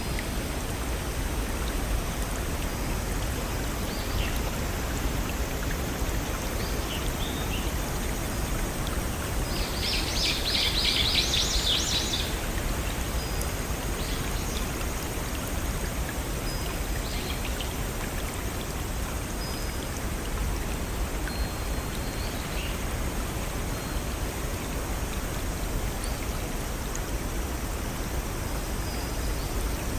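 Steady rush of a small forest stream and waterfall, with a bird's rapid high chattering call about ten seconds in and a few faint, brief high chirps scattered through.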